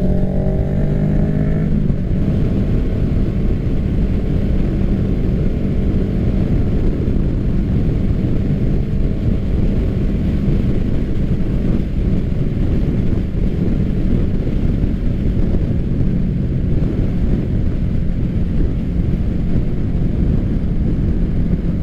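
A 2024 Kawasaki Ninja 650's parallel-twin engine, breathing through an M4 full aftermarket exhaust, running at a steady cruise under the rider. Its note is mixed with a steady rush of road and wind noise.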